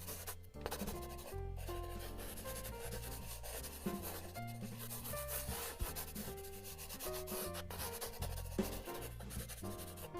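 A pencil or marker rubbing and scratching on paper in continuous strokes, as a drawing is shaded or coloured in, with background music.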